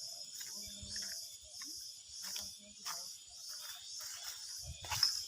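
Steady, pulsing high-pitched chorus of forest insects, with scattered rustles and knocks. Near the end comes a louder low thump.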